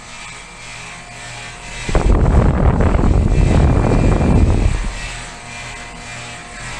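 Two heat pump outdoor units, a 1995 Carrier TECH2000 and a 2019 Lennox Elite EL16XP1, running together with a steady compressor and fan hum. About two seconds in, a loud rough rumble starts abruptly and drowns them out for about three seconds before fading back.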